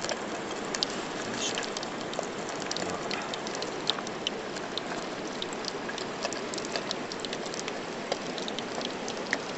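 Tempura frying in hot oil: a steady sizzle full of small, quick crackles.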